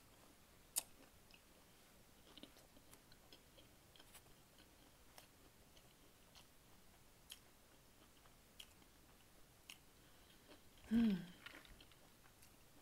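Close-miked chewing: faint, scattered wet mouth clicks and smacks of someone eating food. About eleven seconds in comes a short, louder voiced sound that falls in pitch.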